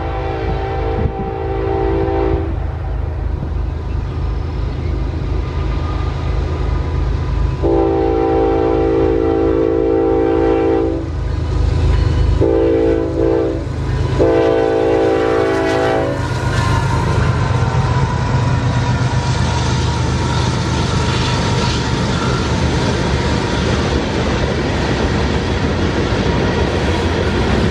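Freight train's locomotive horn sounding the long-long-short-long grade-crossing signal as a multi-note chord, over the low rumble of its diesel engines. After the last blast the train passes close by, its wheels clattering over the rail joints.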